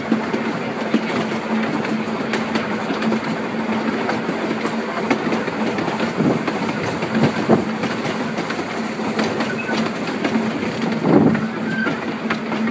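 Open narrow-gauge railway carriage running along the track: a steady rumble and rattle of wheels on the rails, with a low hum throughout and a few louder thumps over the second half.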